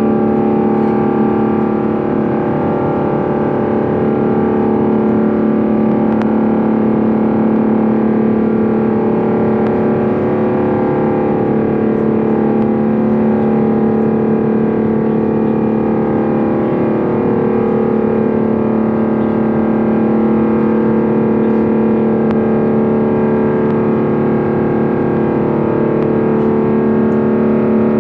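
Airbus A350-900's Rolls-Royce Trent XWB engines at climb thrust, heard from inside the cabin as a loud, steady multi-tone drone with a strong low hum and higher tones that waver slightly. The engine noise is unusually loud at takeoff power.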